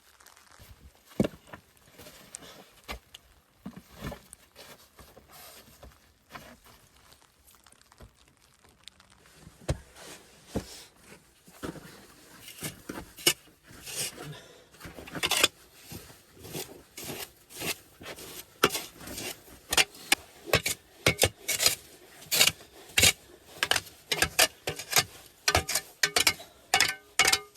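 Snow being scraped and cleared out of a small rock cave: a run of short scraping strokes, scattered at first, then quick and steady at about two a second through the second half.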